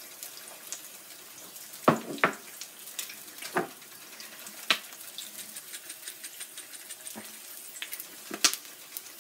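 Bacon and eggs frying on a cast-iron griddle: a steady sizzling hiss with a few sharp pops and clicks scattered through it.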